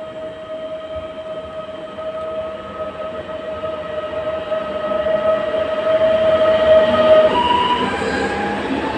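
Electric multiple unit approaching and passing along a station platform, its running noise growing louder. A steady electric whine comes from the train and drops in pitch as the front passes, about seven seconds in.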